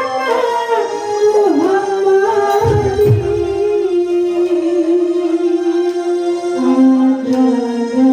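Live kuntulan music: a singer holds long, ornamented notes with a wavering pitch over the ensemble, and a couple of low drum strokes sound about three seconds in.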